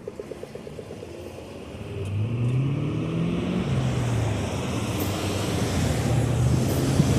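A car passing on the road, its engine note rising and then falling as it goes by, over road and tyre noise that builds about two seconds in. A rapid, even ticking fades out in the first second.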